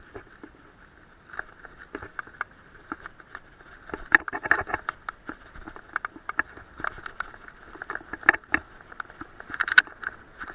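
Bicycle rattling over a rough track: a steady stream of irregular clicks and knocks, with louder clatters about four, eight and nearly ten seconds in.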